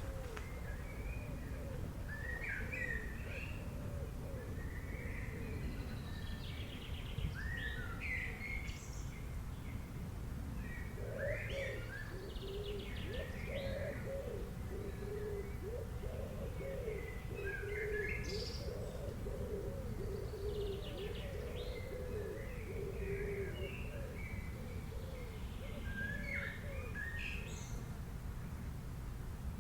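Birds singing in the open: short, quick chirping phrases repeat every couple of seconds, while lower calls run through the middle of the stretch, over a steady low background rumble.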